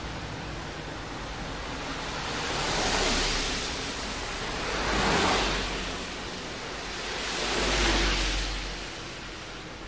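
A rushing noise with no musical tones. It swells and fades three times, a few seconds apart.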